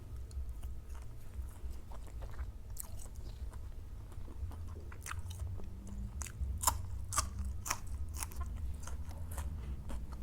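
A person chewing and biting food with a run of crisp crunches, growing thicker about halfway through, over a steady low hum.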